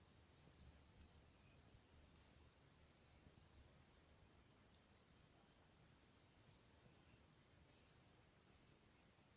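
Faint, high-pitched bird chirps, short notes repeating several times over a low, steady rumble.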